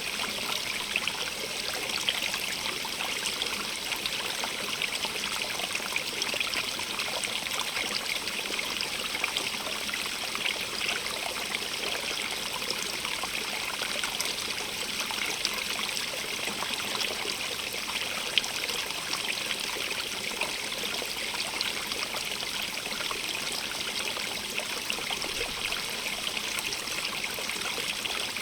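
Stream of running water trickling and splashing steadily over stones, an even hiss with fine spattering detail.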